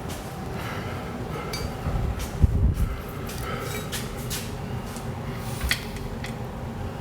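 Metal parts and tools being handled: scattered clinks and knocks, the loudest a dull thump about two and a half seconds in, over a steady low hum.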